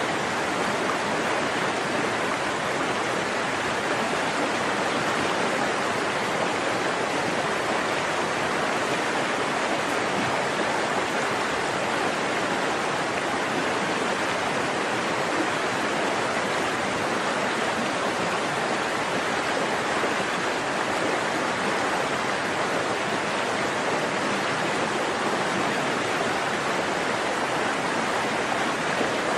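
A forest stream running: a steady, unbroken rush of flowing water.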